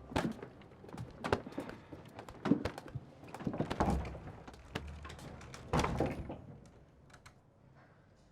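A run of irregular knocks, thuds and clicks in a small room, several louder thuds among them, growing sparse and faint after about six seconds.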